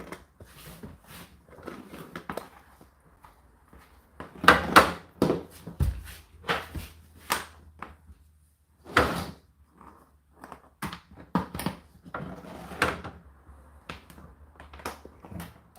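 Indesit IDC8T3 condenser tumble dryer: irregular knocks, clunks and rustling over a faint steady low hum.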